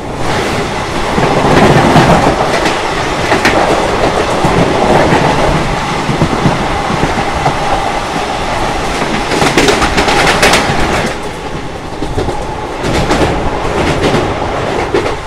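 Wheel clatter and rushing noise of a moving express train heard from an open coach door, as another train hauled by an electric locomotive passes the other way on the adjacent track. The rush swells about two seconds in and again around ten seconds, with sharp clicks of wheels over rail joints.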